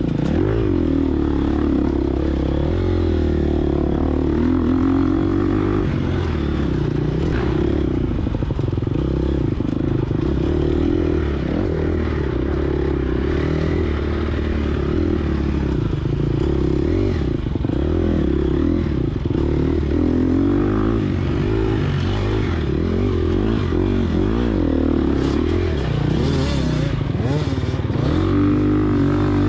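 Gas Gas EX250F four-stroke single-cylinder dirt bike engine under hard riding, its pitch rising and falling again and again as the throttle is opened and closed. A few knocks and rattles come from the bike over the terrain.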